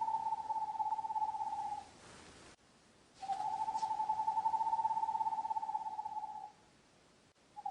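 An animal's call: long, even trills held on one pitch. One trill runs into the first two seconds, a second lasts about three seconds after a short pause, and a third begins near the end.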